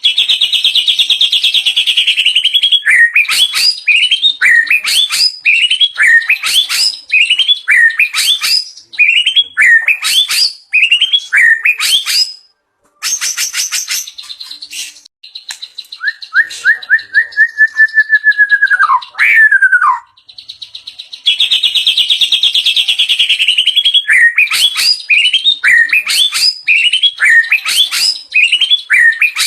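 White-rumped shama singing loudly, pouring out its varied repertoire of mimicked phrases: rapid repeated sharp chirps and buzzy trills, broken midway by a short pause and one long whistle that falls away at the end.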